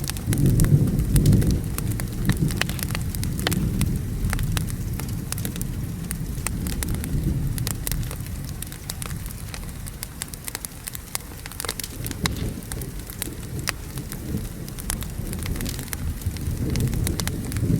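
Wood fire crackling in sharp irregular pops over steady rain. A low rumble of thunder fills the first few seconds and fades away, and another begins to build near the end.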